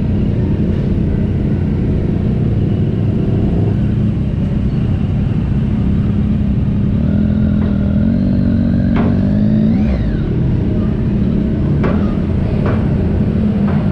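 Motorcycle engine running on the road under a heavy low rumble of wind and road noise, its pitch climbing as it revs up a little past the middle.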